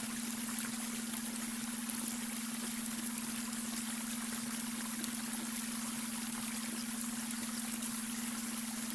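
Babbling brook: water running and trickling steadily, with a steady low hum tone mixed under it, the added beta-wave brainwave tone.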